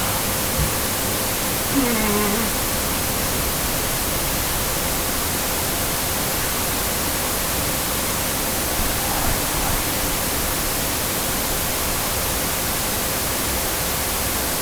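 Steady white-noise static hiss filling the room, with a faint steady tone running through it.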